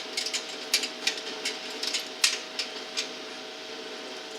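Sharp, irregular metal clicks and clinks of hand tools working a bolt on a riding mower's engine cover, over a steady hum.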